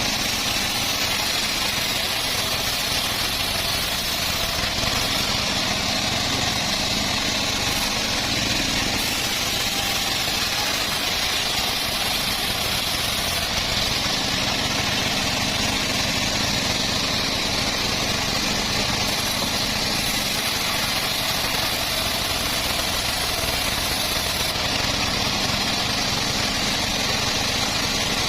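Homemade bandsaw mill running steadily, an even machine noise with a high hiss that holds without a break.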